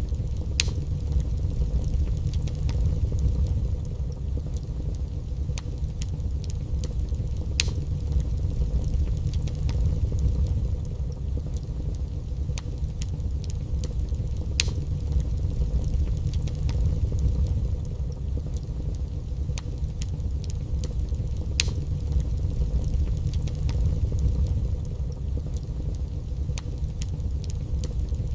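Wood fire burning in a fireplace: a steady low rumble from the flames, with irregular crackles and a few sharp pops from the burning logs.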